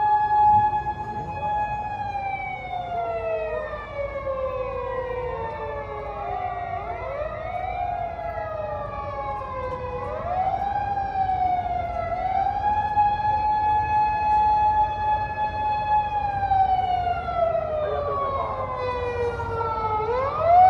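Emergency vehicle sirens wailing, more than one sounding at once out of step. Each holds a high tone, falls slowly over several seconds, then rises quickly again.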